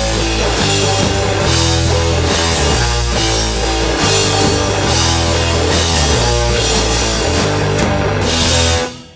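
Rock band playing live, with guitar and drum kit. The song ends abruptly just before the end.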